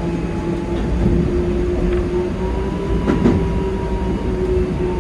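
Keikyu 2100 series electric train running on the line: a steady rumble of wheels on rail under a held, slightly wavering whine from the traction motors. A single sharp knock sounds about three seconds in.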